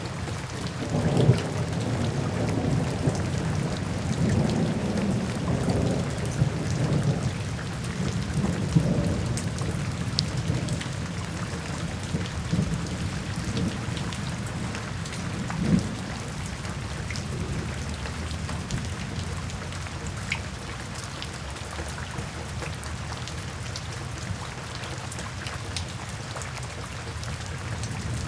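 Steady rain falling, with thunder rumbling low through roughly the first half and fading after the middle.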